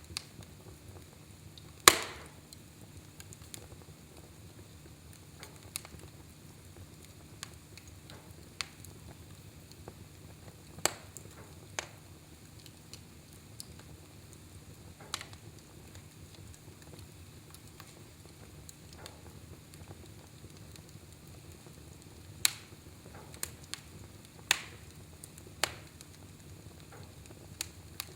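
Fire in a fireplace crackling: scattered sharp pops over a steady low hiss, the loudest pop about two seconds in and a cluster of pops in the last few seconds.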